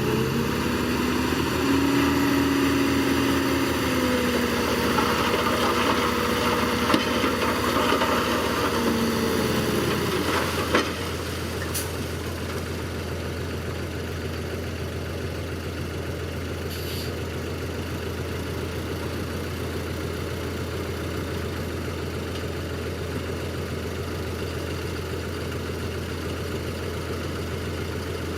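Bulldozer diesel engine running under load, its pitch rising and then holding for several seconds. About ten seconds in there is a knock, and the engine settles to a steady low idle.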